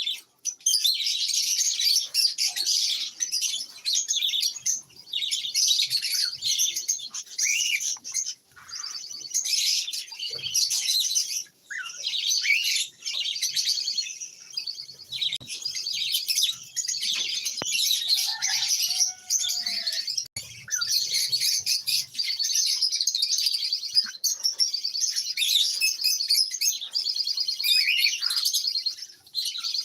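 A flock of caged lovebirds chirping and chattering continuously, with many overlapping high-pitched calls and only brief pauses.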